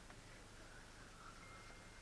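Near silence, with a faint steady hum and a brief thin high tone near the end.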